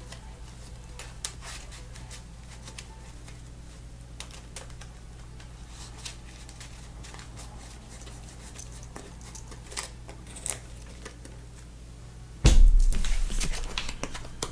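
Scattered soft clicks and taps of trading cards being handled and placed on a table, over a steady low hum. About twelve seconds in comes a loud thump with a rustle lasting a couple of seconds.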